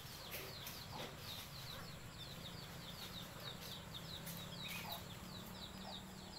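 A bird calling: a long, even run of short, high chirps, each falling in pitch, several a second.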